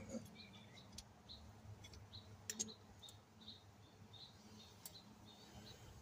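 Near silence with short, high chirps repeated two or three times a second, like a small bird calling, and a few faint sharp clicks, the loudest about two and a half seconds in.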